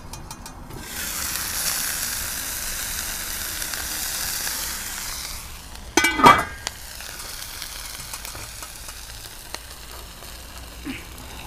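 Chicken frying in oil in a pan: a loud burst of sizzling for about five seconds, then settling to a quieter, steady sizzle. About six seconds in there is a short, loud, pitched squeak.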